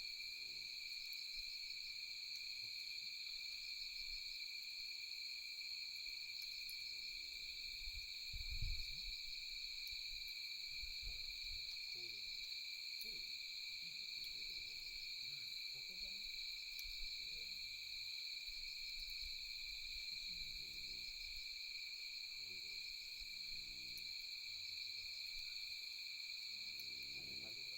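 Steady chorus of night insects trilling in two high pitches, with faint distant voices underneath and a single low thump about eight and a half seconds in.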